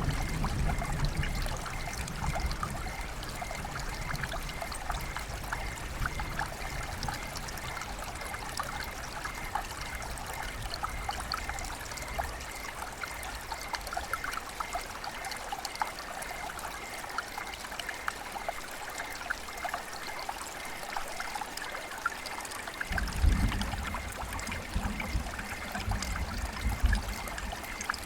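River water flowing and trickling, a steady babble full of small splashes. A low rumble sits under it at the start and comes back about five seconds before the end.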